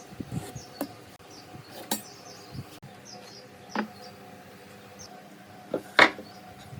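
A few scattered sharp knocks and clicks, the loudest about six seconds in, over a faint steady hum and faint high chirps.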